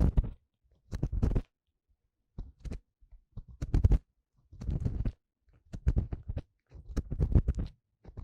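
An ear-cleaning tool scraping and rubbing inside a binaural dummy-head microphone's ear, heard close up. It comes in a series of short scratchy strokes, roughly one a second, with silence between them.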